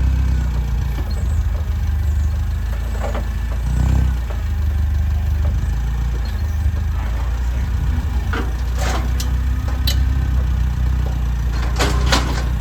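A vehicle engine running steadily, with a few sharp rattles and clanks over it, the loudest pair near the end.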